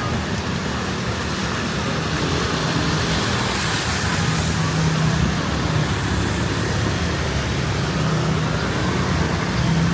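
Street traffic: motor vehicle engines running close by with a steady low hum, and a brief rise in hiss about four seconds in as a vehicle passes.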